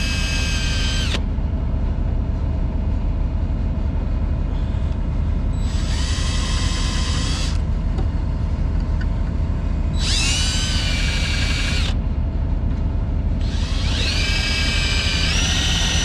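Cordless drill drilling into thick metal, run in about four short bursts of high motor whine. In the last and longest burst the pitch dips as the bit loads up. A steady low rumble runs underneath.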